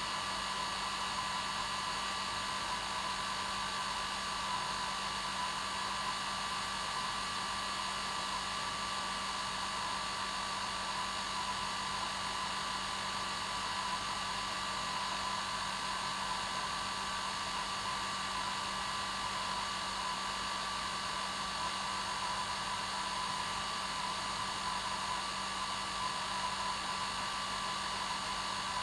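Hair dryer running steadily: an unchanging whoosh of air with a steady motor hum and whine.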